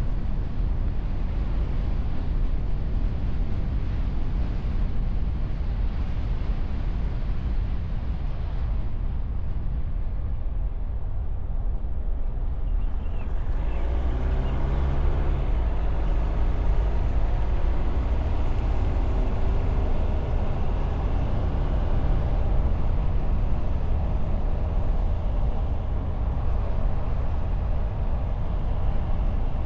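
Driving noise picked up at a bonnet-mounted camera on a moving car: a steady, loud low rumble of wind against the wind-shielded microphone, mixed with tyre and engine noise. The tone shifts briefly about a dozen seconds in.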